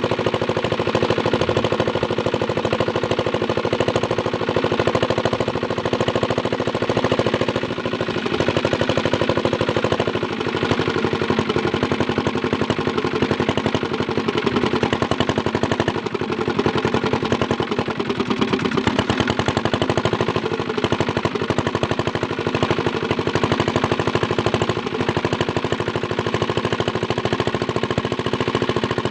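Small diesel engine running steadily, its firing beats coming as a rapid even knocking, driving a water pump.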